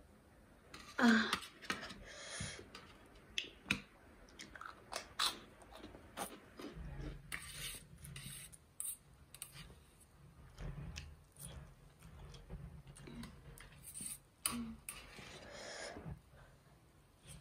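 Close-miked chewing of spicy Maggi instant noodles, with sharp clicks of steel chopsticks against a steel tray. Two louder, noisier stretches come about a second in and near the end.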